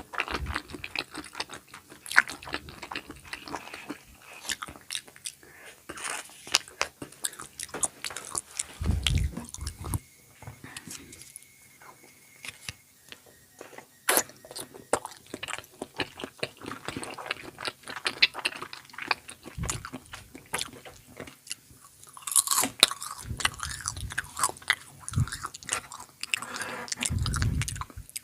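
Close-miked eating: repeated bites and chewing with crisp crunching and crackles, with a couple of dull low thumps about nine seconds in and again near the end.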